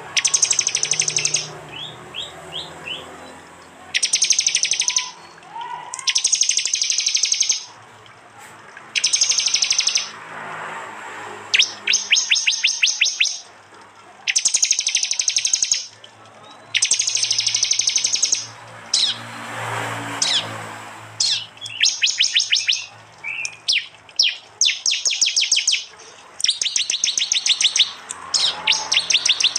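Prenjak (prinia) birds giving loud, sharp 'tembakan' calls: bursts of rapid chattering notes, each about a second long, repeating every two seconds or so.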